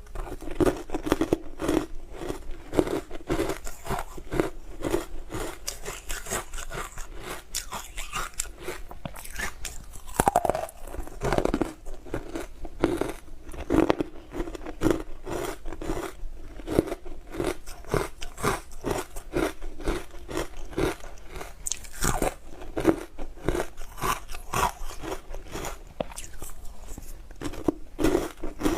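Close-miked crunching and chewing of hard frozen ice, with sharp bites and crunches following one another several times a second.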